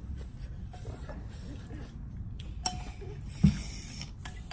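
Tableware handled at a meal: a short ringing clink, then a moment later a dull knock, like a bowl or spoon set down on the table.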